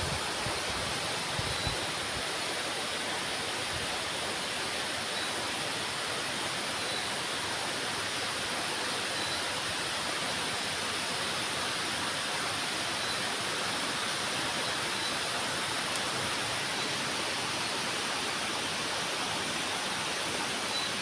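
Steady rain falling, an even hiss that does not change. A faint high peep recurs every couple of seconds.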